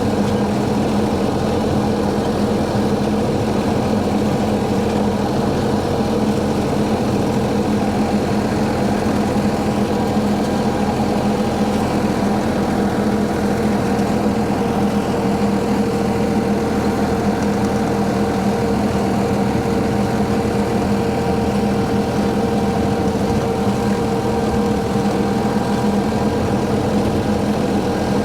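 Tractor engine running at a steady speed while driving a brush hog rotary mower, with an even drone that holds one pitch.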